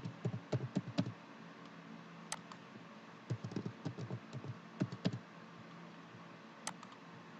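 Computer keyboard typing in two short runs of keystrokes, with two sharper single clicks between and after them, as login details are entered.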